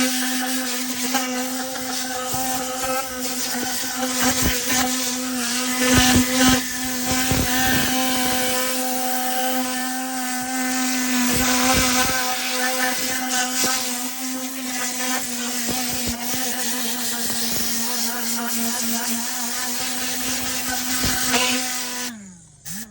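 Tornador Z-020 air cleaning gun blasting compressed air into car carpet: a loud rushing hiss over a steady hum, with scattered knocks. Near the end the air cuts off and the hum falls in pitch as it winds down.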